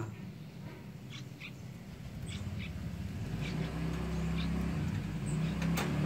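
Faint, short high chirps from small caged birds. A low steady drone comes up about halfway through and grows louder.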